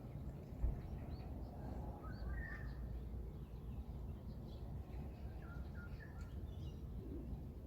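Small birds chirping in short scattered calls over a steady low rumble, with a single brief low thump about a second in.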